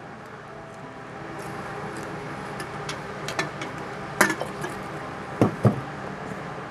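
A steady hum with a few scattered light knocks and clicks, the sharpest one about four seconds in, and two brief low sounds near the end.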